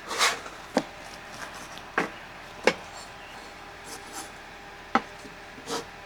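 About six short, sharp knocks or taps at uneven intervals, as of objects being handled or set down.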